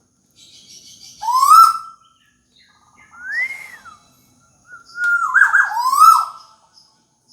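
Tuwu bird singing: three loud, clear whistled calls. The first rises and holds, the second arches up and back down, and near the end several notes rise and fall in quick succession.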